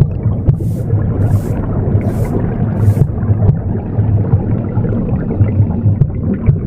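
Womb sound, a continuous low pulsing whoosh, mixed with a broom sweeping: four short brushing strokes in the first three seconds, then only the womb sound.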